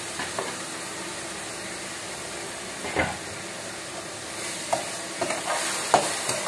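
Fried onions and spices sizzling in a steel pot while being stirred with a steel spoon. The sizzle grows louder over the last two seconds, and the spoon clinks and scrapes against the pot once about three seconds in and several times near the end.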